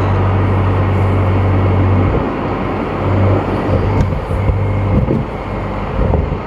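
BMW M235i's turbocharged inline-six engine droning steadily under road noise. The drone drops away about two seconds in, then comes and goes as the throttle changes.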